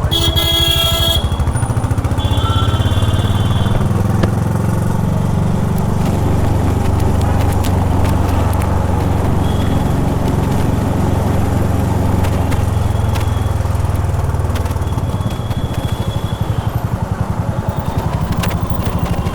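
Honda H'ness CB350's single-cylinder engine running steadily under way, the revs easing off around two-thirds of the way through and picking up again near the end. A horn sounds for about a second at the start, and a shorter, higher horn follows soon after.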